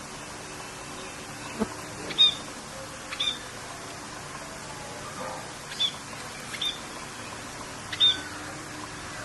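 Birds chirping in short separate calls, about five or six of them, over a steady hiss of rain.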